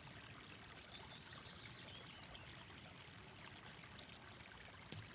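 Faint, steady running water of a creek, a soft babbling flow.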